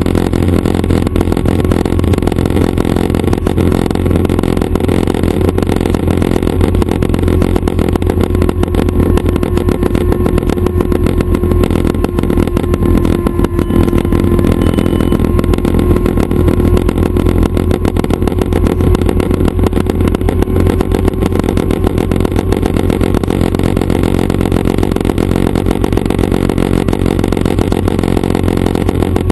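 Schweizer 269 light helicopter running steadily, its piston engine and rotors making a loud, even drone with fast pulsing and a steady hum throughout.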